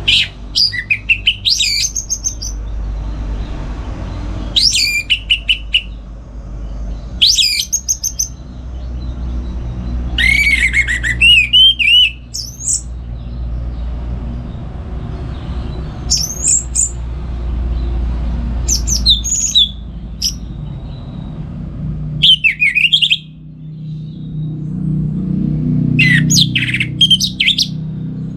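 Orange-headed thrush (anis merah) singing loud, varied phrases of quick rising and falling whistles, one every two to four seconds, over a steady low rumble.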